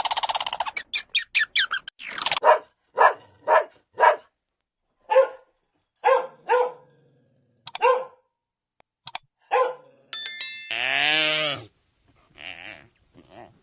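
Dog barking about ten times in short separate barks, a little irregularly. Near the end a single longer, drawn-out pitched call follows.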